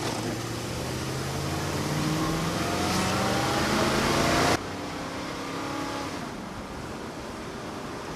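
1960 Ford Thunderbird's V8 accelerating hard at full throttle from a standstill, its pitch climbing steadily. About four and a half seconds in it cuts off abruptly, leaving a quieter steady rushing noise.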